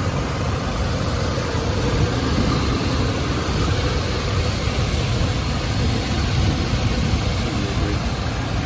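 1989 Dodge Ramcharger's 318 cubic-inch V8 idling steadily after a cold start.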